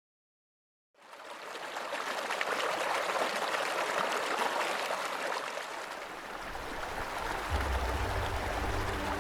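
Mountain stream rushing steadily over rocks, fading in about a second in; a low music drone begins near the end.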